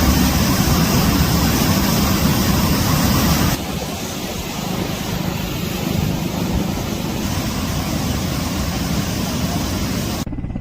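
Helicopter noise: a loud, steady roar of rotor and turbine with wind on the microphone, dropping in level abruptly about three and a half seconds in.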